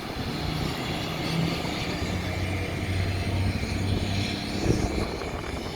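A vehicle engine running with a steady low hum over outdoor road noise, with a short knock near the end.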